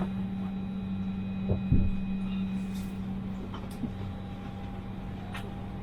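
Steady hum inside an Airbus A320 cabin, with a low, even tone throughout. A couple of dull thumps come about one and a half seconds in.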